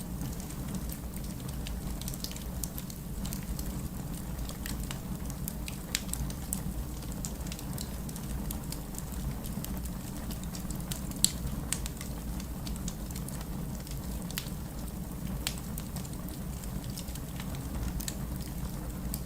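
Wood fire crackling in a fireplace, with irregular sharp pops, one standing out a little past halfway, over the steady hiss and low rumble of heavy rain.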